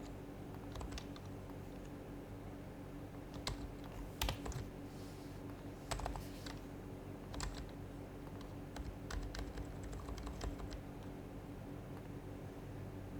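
Keystrokes on an HHKB Professional HYBRID Type-S keyboard, whose silenced Topre switches give soft, muted clacks. The typing is sparse, in short irregular clusters, and thins out near the end, over a steady low hum.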